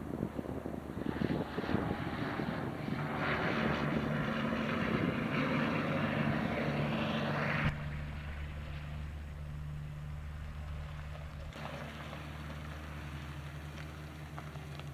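Truck engine running, held at raised speed, then dropping abruptly to a steady idle about eight seconds in.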